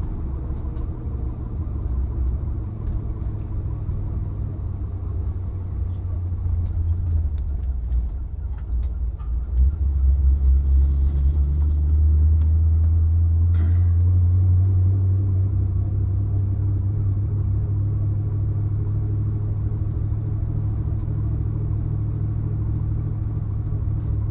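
Chevrolet Impala's 300-horsepower 327 V8 with a Holley four-barrel running as the car rolls along slowly, a low engine rumble. It gets louder about ten seconds in, then runs steadily.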